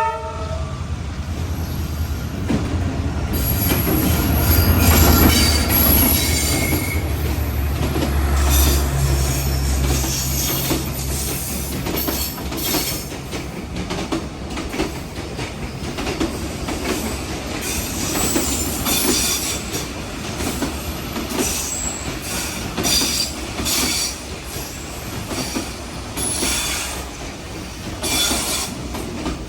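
A diesel-hauled passenger train passing. The locomotive's low engine hum fades after about twelve seconds, then the carriages roll by with the wheels clicking over the rail joints and giving short high squeals.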